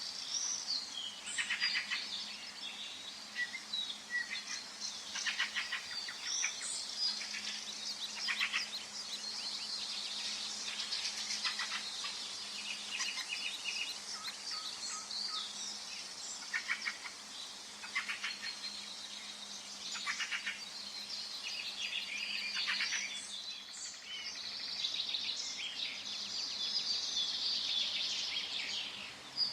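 Forest songbirds singing together: a dense, overlapping chorus of high chirps and rapid trills.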